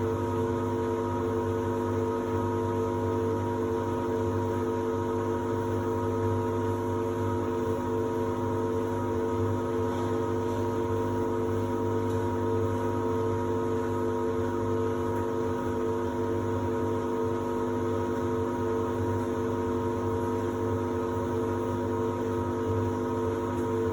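Samsung WD70T4047CE washer-dryer running in its drying phase, giving a steady, unchanging hum that holds a few constant pitches.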